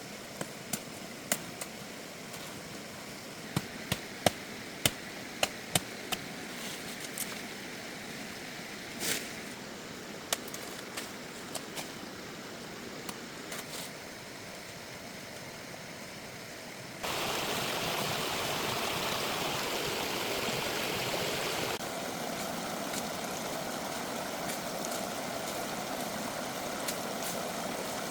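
A steady background hiss with a series of sharp clicks and knocks over the first half; about two-thirds of the way in it cuts abruptly to the louder, even rush of running stream water.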